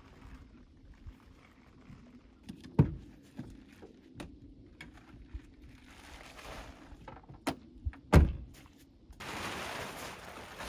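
A series of knocks and thunks, with two loud ones about three seconds in and about eight seconds in and lighter clicks between. A steady rushing noise starts about nine seconds in.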